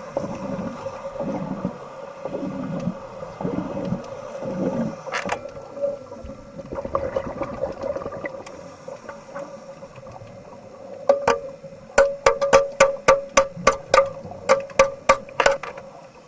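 Underwater sound: low bubbling or gurgling over a steady hum, then from about eleven seconds in a quick run of about a dozen sharp clicks, roughly three a second, which are the loudest part.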